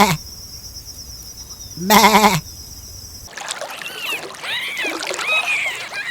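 Two wavering bleats from a goat or sheep. The first ends right at the start; the second comes about two seconds in. About three seconds in the sound cuts to a chorus of many short, high chirps with rising-and-falling pitch, typical of young birds peeping.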